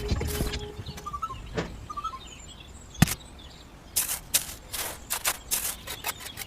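Irregular knocks and taps, the sharpest about three seconds in and a quick run of them near the end, with a few faint bird chirps early on.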